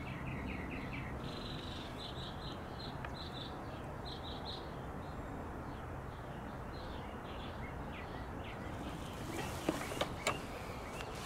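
Steady outdoor background noise with a bird chirping in short repeated high notes for most of the first two-thirds, then a few sharp clicks near the end.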